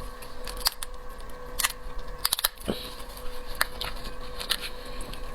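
Irregular sharp cracks and crunches of shellfish being cracked, peeled and eaten, with a quick double snap a little past two seconds, over a faint steady hum.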